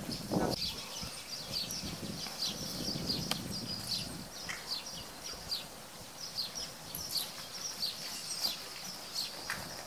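Birds chirping steadily, a quick run of short, high, falling notes repeated several times a second.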